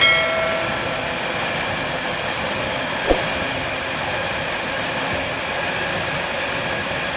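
Steady rolling noise of a long narrow-gauge freight train of loaded mineral hopper wagons passing. A short chime rings out at the start and a single click comes about three seconds in.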